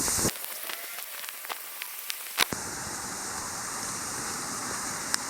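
Rain falling steadily with scattered drop ticks. The sound changes abruptly twice, about a third of a second in and about two and a half seconds in, and there is a single sharp click near the end.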